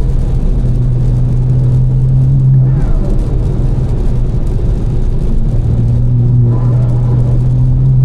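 Tuned BMW M4's twin-turbo straight-six with a catless, aftermarket exhaust droning at a steady cruise inside the cabin, over a constant hiss of tyres on a wet road. The drone drops away about three seconds in and comes back near the end as the throttle changes.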